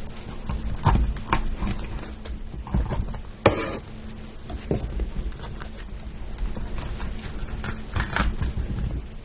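Close-miked eating sounds: food being chewed and crunched in irregular crisp clicks, with one louder crunch about three and a half seconds in, over a low steady hum.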